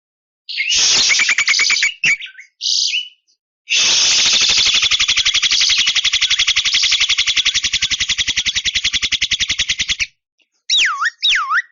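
Javan myna calling: a short burst of harsh rasping notes, a brief note, then a long, fast rasping rattle lasting about six seconds. Near the end it starts a run of swooping, siren-like whistles that rise and fall.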